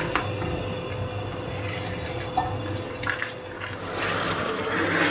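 Biryani masala paste sizzling in ghee in a nonstick wok as a silicone spatula stirs and scrapes through it, with a few light knocks of the spatula on the pan. The masala is at the end of its frying, the ghee separating out from it.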